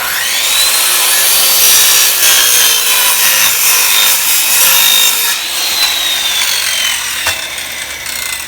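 Old SKIL circular saw with a dull blade starting up with a rising whine and ripping through a 2x4 with ten nails hammered into it, the blade grinding through wood and nails. About five and a half seconds in the cut ends, and the motor's whine falls slowly as the blade spins down, with a single click a little later.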